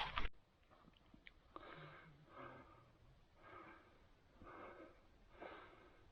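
Faint heavy breathing of a hiker climbing a hill path, about one breath a second.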